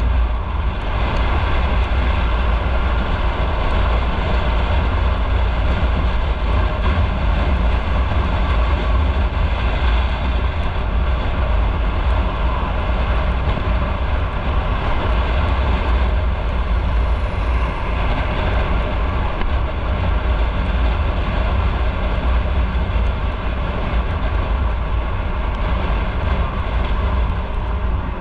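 A motorcycle being ridden: a loud, steady rush of engine and road noise, heaviest in the deep low end, with no let-up.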